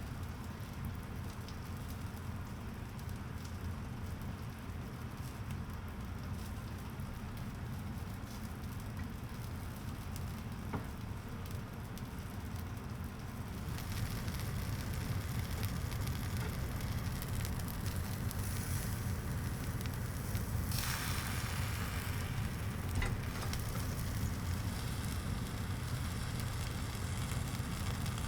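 Charcoal fire in a small tabletop grill, a fine crackling and sizzling hiss that grows louder about halfway through, with a brief stronger hiss a few seconds later, over a steady low hum.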